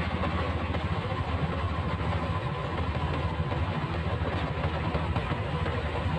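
Motorcycle engine running steadily, a continuous low rumble with a noisy hiss over it and no change in pace.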